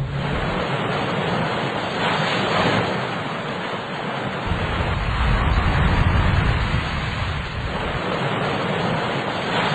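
Wind and rough sea, a continuous rush of noise that swells and eases every few seconds.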